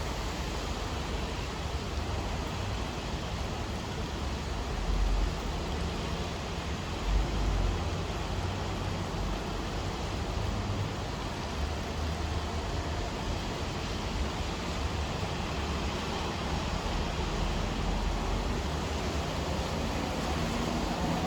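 Steady rain, an even hiss, with low rumbling swells about five and seven seconds in.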